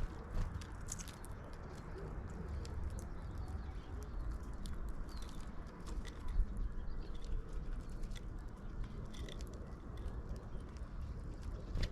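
Birds at a feeder: scattered sharp taps and clicks with a few faint short chirps, over a steady low rumble.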